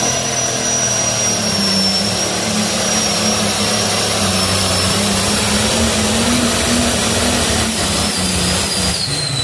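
Turbocharged diesel engine of a John Deere 4620 limited pro stock pulling tractor running flat out under load on the pull, with a loud, steady high turbo whine over the engine note. Near the end the whine falls in pitch as the engine comes off.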